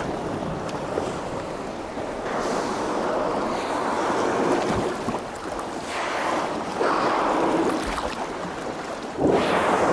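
Sea water rushing and splashing as humpback whales charge and jostle at the surface, swelling in several surges.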